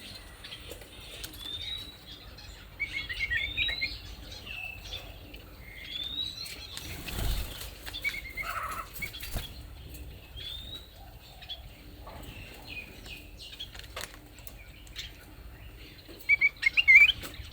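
Small songbirds calling with short rising whistled chirps every second or two. A brief flutter comes about seven seconds in, and a run of loud chirps near the end.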